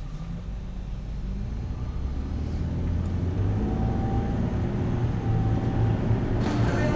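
Low rumble of a motor vehicle, building louder over the first few seconds, with a brighter, fuller noise coming in near the end.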